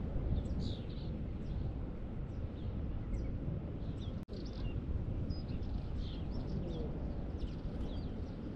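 Small birds chirping, with many short high calls scattered throughout, over a steady low rumble. The sound drops out for an instant a little over four seconds in.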